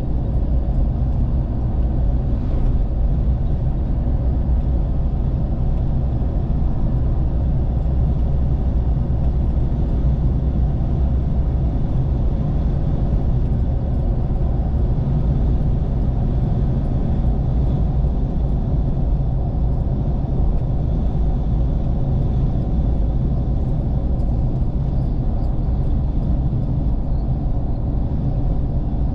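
Steady low rumble of a vehicle driving along the road, engine and road noise unchanging throughout.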